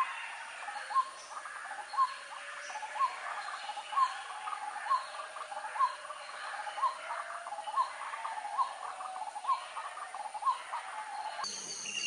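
A bird calling a short, rising note about once a second, over a steady hiss.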